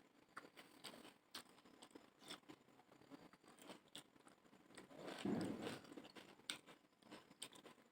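Faint close-up eating of chotpoti: chewing with small crunches and clicks scattered throughout. There is a louder, softer noisy swell about five seconds in.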